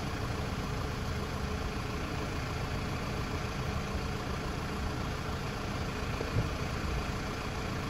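Audi car engine idling steadily, a low even rumble.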